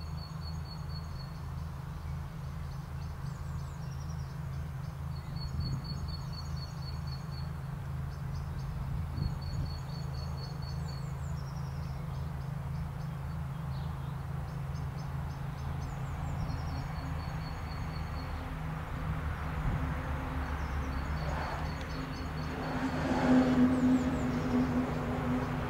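Electric freight locomotive approaching with a container train, its running noise growing louder near the end with a steady tone, over a constant low hum. Birds chirp repeatedly throughout.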